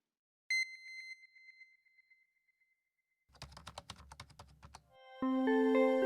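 Outro sound effects and music: a single bell-like chime that rings out and fades, then a quick rattle of rapid clicks, then soft sustained music notes starting about five seconds in.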